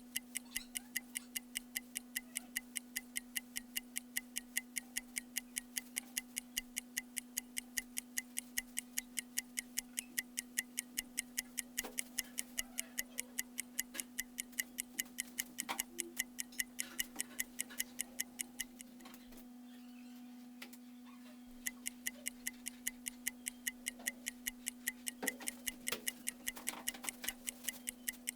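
Fast, even ticking, about four ticks a second, over a steady low hum. The ticking stops for about three seconds past the middle, then starts again.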